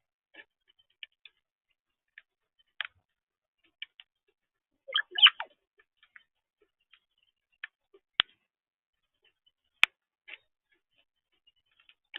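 A blackbird at a bird feeder making irregular short ticks and taps, with a busier cluster about five seconds in and two sharp clicks near the end.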